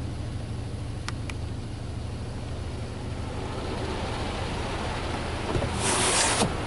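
Steady low mechanical hum heard from inside a car standing in an automatic car wash bay, with two faint clicks about a second in. A short loud burst of hiss comes near the end.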